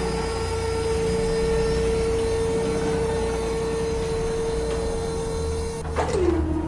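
A steady mechanical whine held on one pitch over a low hum. Near the end it drops lower for a moment after a click, then returns.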